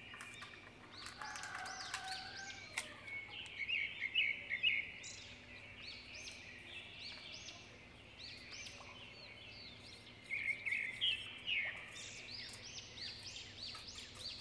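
Small birds chirping over and over in quick runs of short high chirps, with a few light clicks in the first few seconds.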